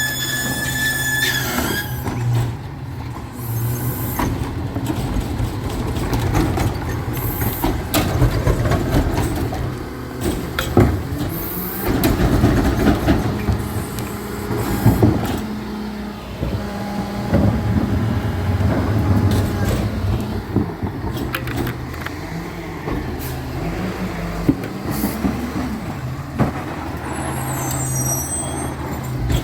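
Recycling truck working: its engine runs steadily under many clanks and knocks, with a few short hisses of air.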